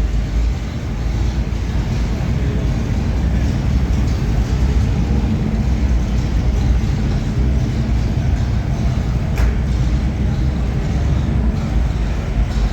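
Car engines running with a steady deep rumble, and a single click about nine seconds in.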